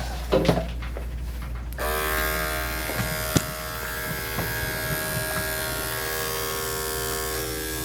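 Electric dog grooming clippers running steadily while shaving a Portuguese Water Dog's coat. A few short knocks come in the first second, then about two seconds in a steady, higher whine sets in and holds.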